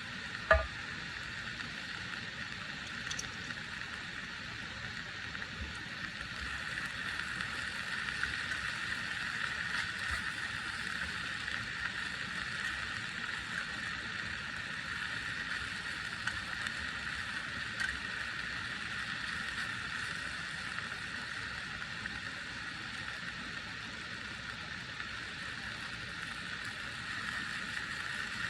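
Steady rain falling as an even hiss, with a single sharp knock about half a second in.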